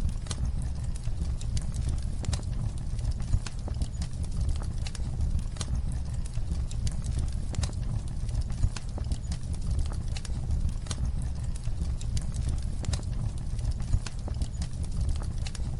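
Wood fire crackling in a fireplace: irregular snaps and pops over a steady low rumble, with a few louder pops about 3, 9 and 14 seconds in.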